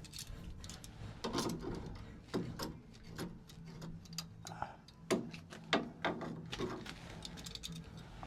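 Irregular metal clicks and knocks of hand tools working on a car's steering track rods as the toe-in is adjusted, with a low background hum.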